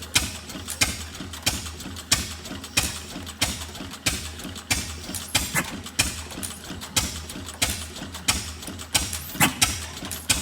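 Antique stationary engine running, with a sharp clack about one and a half times a second over a steady low rumble and mechanical clatter.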